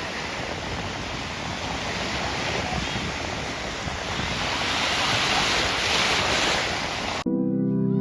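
Ocean waves washing ashore in a steady, surging rush, with wind buffeting the microphone. About seven seconds in it cuts off suddenly and sustained organ-like music chords begin.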